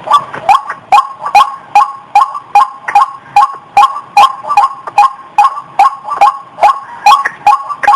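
Female white-breasted waterhen (ruak-ruak) calling, described by the uploader as in breeding condition. It repeats a sharp, nasal note about two and a half times a second, steady and unbroken.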